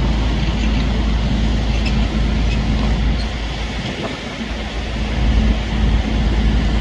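Heavy vehicle engine running steadily, with a constant low hum, easing off briefly about four seconds in.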